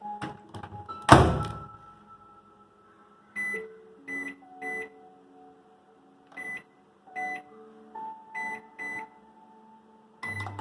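A convection oven's door shut with a loud thunk about a second in, after a few light clicks, then about eight short beeps from its control panel as the buttons are pressed to set grill-with-convection mode and the cooking time.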